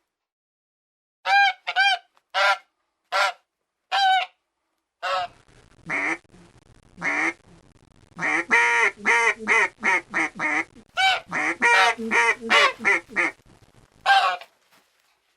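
Animal calls: five short pitched calls spaced about a second apart, then, over a faint background hiss, many calls in quick succession overlapping one another, as from several animals calling together.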